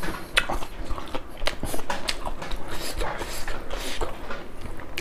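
Close-up chewing with an open mouth: wet smacks and many quick clicks of lips and tongue on a mouthful of rice and curry. Fingers squish and scoop rice on a steel plate near the end.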